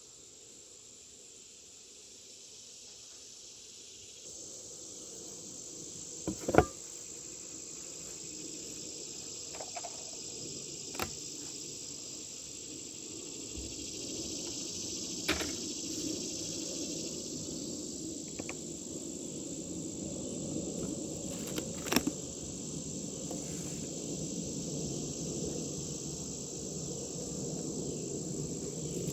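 Honeybees at an open hive humming and growing steadily louder, over a steady high insect chorus. A few sharp clicks and knocks from hive equipment being handled.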